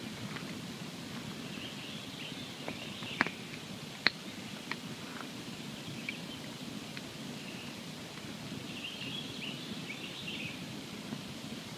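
Wood campfire burning: a steady low crackle and hiss with scattered sharp pops, the loudest two about three and four seconds in.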